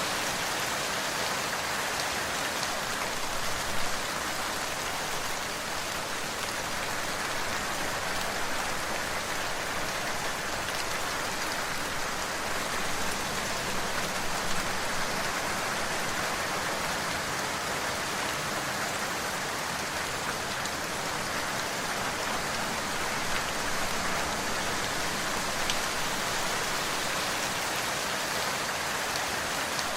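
Steady rain falling on a surface, an even dense patter with a few louder individual drops now and then.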